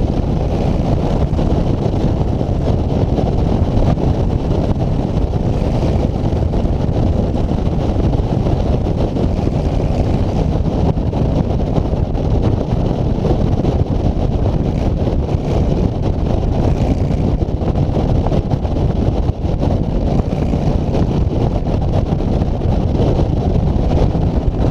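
Wind buffeting the microphone of a camera riding along on a moving road bike: a loud, steady low rush with no separate sounds standing out.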